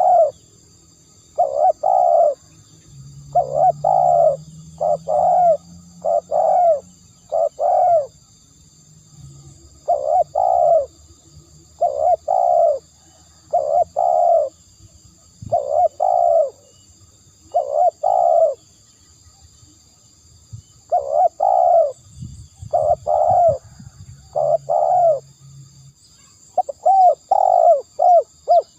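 Spotted dove cooing: short, deep coo notes given in repeated phrases, with pauses of a second or two between runs. Faint steady high-pitched tones run underneath.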